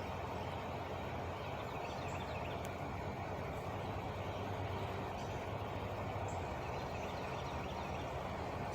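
Truck engine idling steadily, a constant low hum that neither rises nor falls, with a few faint bird chirps above it.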